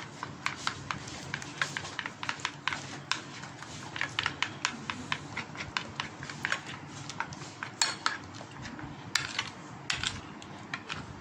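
A spoon clicking and tapping against a bowl as a thick flour-and-water batter is stirred and beaten, in quick irregular taps several times a second.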